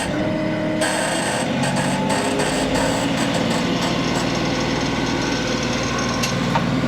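LS XR3140H compact tractor's diesel engine running steadily at high throttle, about 2400 rpm, as the tractor drives.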